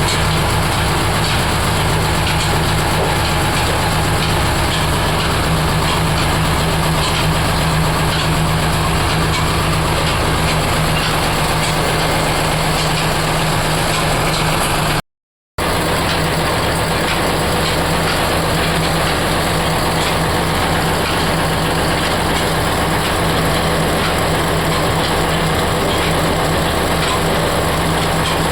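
24×4 oil expeller running steadily, a loud continuous machine noise with a strong low hum. It is broken once, about halfway, by a half-second gap of silence.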